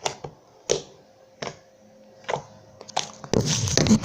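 Freshly made clear slime clicking as it is squeezed and pressed by hand: sharp single clicks about every three quarters of a second, then a dense run of crackly clicks near the end. The maker puts the many clicks down to the slime having just been made.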